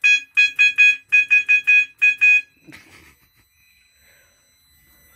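Fire alarm sounder going off in a rapid pulsing tone, about five beeps a second, set off from a manual call point whose glass has been broken. It stops about two and a half seconds in.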